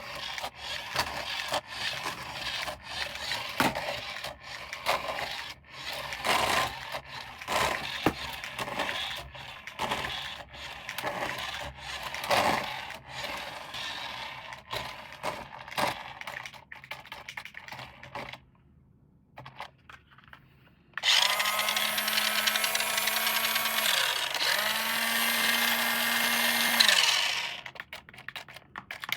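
Toy packaging and a plastic toy being handled and unpacked, with many quick clicks, taps and rustles. After a short pause, a loud steady buzzing sound with a held tone comes twice near the end.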